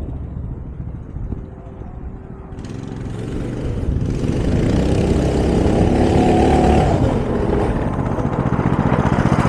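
200 cc Coleman minibike's single-cylinder engine with both governors removed, running quietly at first, then revving up and getting louder from about three seconds in, its pitch climbing and holding high.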